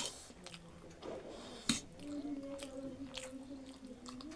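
Close-up mukbang eating of spicy instant noodles: chewing with two sharp mouth smacks about a second and a half apart. A steady low held tone, like a closed-mouth hum, runs through the second half.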